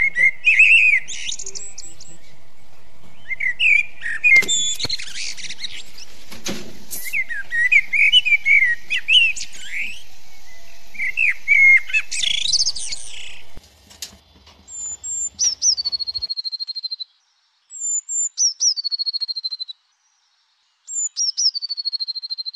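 Birds twittering and chirping in quick rising and falling calls over a steady hiss, which all cuts off abruptly about thirteen seconds in. Then come three whistles, a few seconds apart, each dropping in pitch and holding a steady high note.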